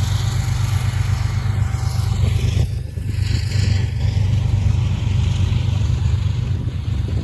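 CSX freight train rolling past with a steady, loud low rumble, just after its mid-train distributed-power locomotive has gone by.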